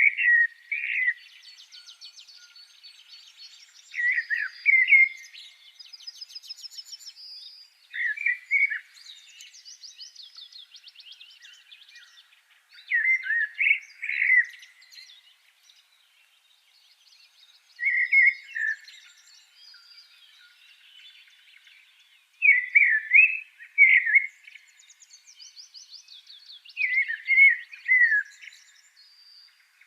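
Birdsong: one bird repeats a short phrase about every four to five seconds, with fainter, higher-pitched rapid trills from other birds in between.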